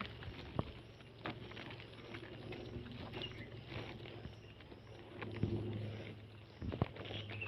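Outdoor ambience: a low steady hum with scattered sharp clicks and taps, the loudest near the end, and a few faint high chirps.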